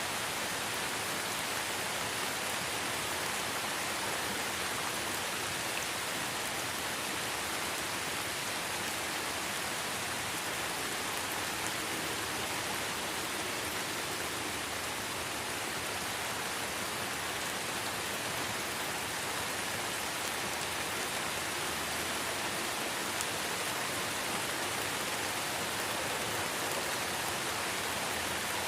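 Steady light rain falling in a forest: an even hiss of drops on leaves and ground, with occasional faint individual drips.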